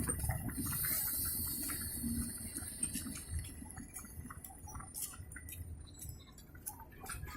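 Low rumble of a passenger train moving away and fading, with scattered light clicks over it.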